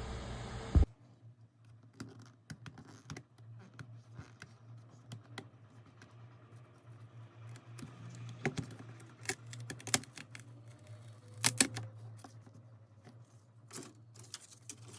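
A loud steady rushing noise cuts off abruptly under a second in. After it come irregular light clicks, taps and short scrapes of small hand tools working on an LCD panel's glass as the old polarizer film is removed, over a low steady hum.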